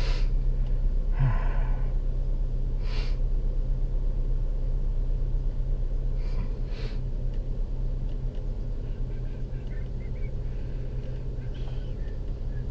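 Steady low hum of a car's engine and tyres heard from inside the cabin while driving, with a few brief breathy sounds over it.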